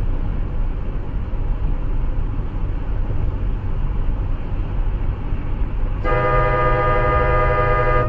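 Steady low road and engine rumble of a moving car, then a car horn sounding in one long blast of about two seconds near the end.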